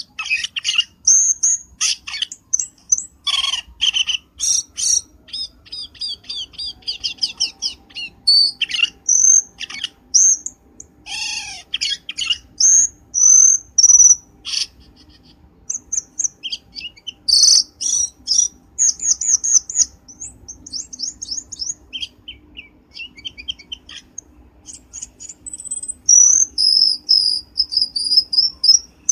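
Cucak keling bird song played as a lure call: a busy, varied string of sharp chirps, fast trills and whistled notes in quick bursts with short gaps.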